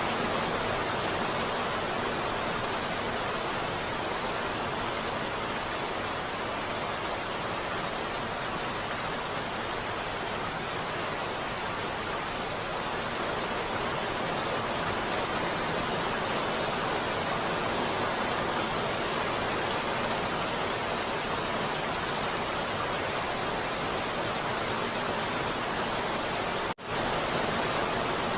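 Heavy rain falling as a steady, even hiss, with a momentary dropout near the end.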